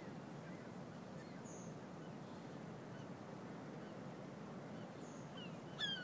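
Birds calling faintly over a steady low background rumble: a few short high calls, then near the end a louder call of quick downward-sliding notes.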